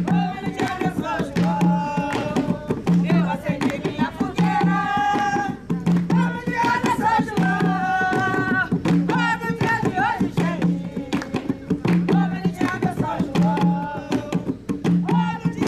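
Jongo music: voices singing over hand drums, with a low drum stroke repeating about every second and a half beneath sharper, quicker hits.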